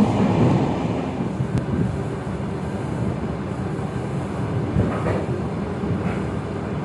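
Suburban electric train running along the track, heard from inside the passenger car: a steady rumble of the wheels on the rails, with a few knocks about five seconds in.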